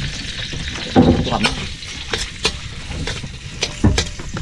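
Food frying in oil in a kawali, sizzling steadily while a spatula stirs it, scraping and ticking irregularly against the pan. This is the start of a sauté (gisa) of garlic, ginger and onion.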